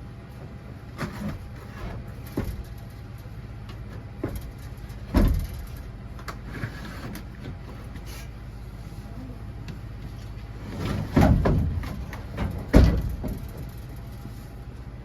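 Several knocks and clunks, the loudest about five seconds in and a cluster near the end, over a steady low hum.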